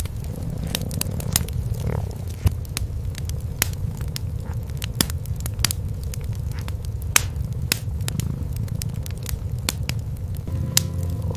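Wood fire crackling with sharp pops scattered irregularly, over the low continuous rumble of cats purring.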